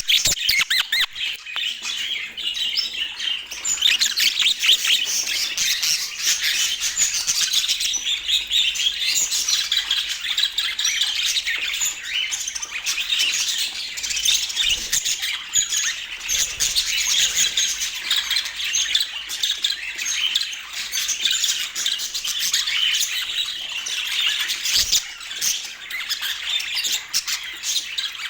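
Budgerigars chirping and chattering without a break, a dense run of short, high squawks and warbles.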